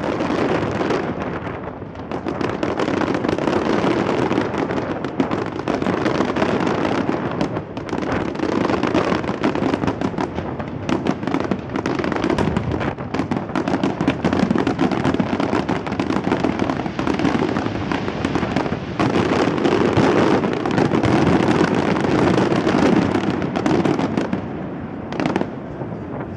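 Fireworks display: a dense, continuous barrage of bangs and crackling, thinning out near the end.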